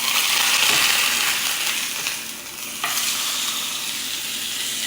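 Creamy chicken pasta sauce sizzling in a pan while it is stirred, a steady hiss that is loudest in the first two seconds, with a single knock of the utensil about three seconds in.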